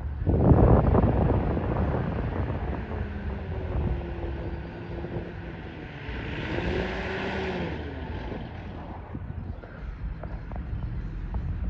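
A passing aircraft's engine drone, its pitch bending slowly, after a loud low rumble in the first couple of seconds.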